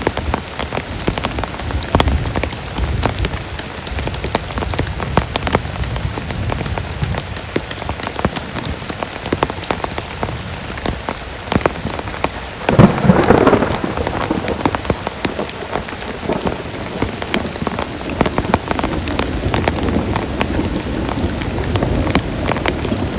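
Heavy rain falling, with many sharp drop impacts close to the microphone. A sudden loud clap of thunder comes a little past halfway and rumbles for over a second.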